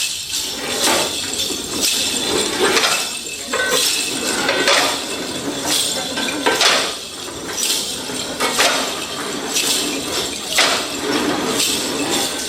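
Percussive music of struck, clinking objects and a tambourine-like jangle, with strong accented hits about once a second over a continuous shimmering jingle.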